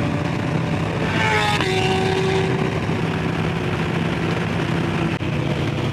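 Motorcycle riding at speed with steady engine drone and wind noise, the Harley-Davidson Low Rider S's 117 V-twin running steadily. About a second in, another motorcycle's engine revs up in a rising whine and breaks off abruptly, as at a gear shift.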